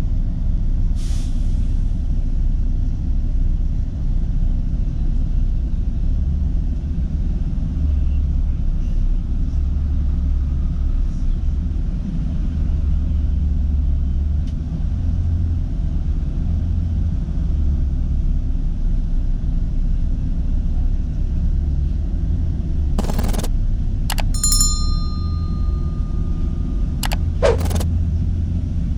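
Steady low rumble of an Airbus A321 heard from inside the passenger cabin. Near the end come a few sharp clicks and a brief tone lasting about two seconds.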